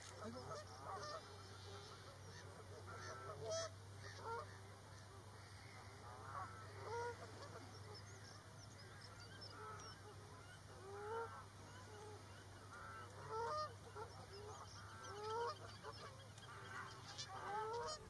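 Faint bird calls: short calls that bend in pitch, repeated every second or two, over a faint steady low hum.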